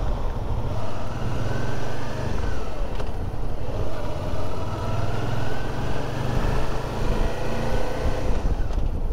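Suzuki V-Strom 650's V-twin engine running under way, its pitch rising and falling several times as the bike speeds up and slows.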